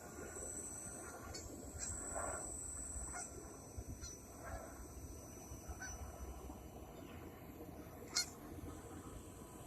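Geese honking several times over the thin, high whine of a small electric RC helicopter's motors, which shifts in pitch. A sharp click about eight seconds in.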